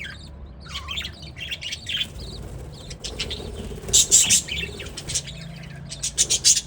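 Budgerigars chirping and chattering in the aviary, with quick bursts of wing flapping, the loudest about four seconds in and again near the end.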